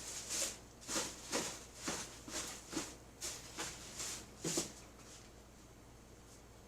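A run of about ten short rustling scrapes, roughly two a second, stopping suddenly about five seconds in.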